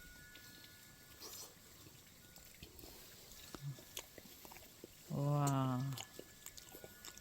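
A man's drawn-out 'wah' of admiration, held for nearly a second and gently falling in pitch, about five seconds in. Before it there are only faint scattered clicks and light rustling.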